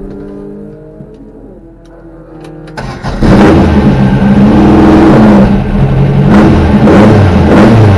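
A 2387 cc air-cooled VW flat-four race engine bursts in loudly about three seconds in and is revved up and down in blips, with a few sharp cracks from the exhaust near the end. Before that there is only a quieter low engine rumble.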